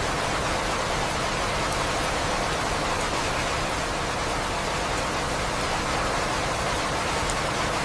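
Steady, even rain with no thunder.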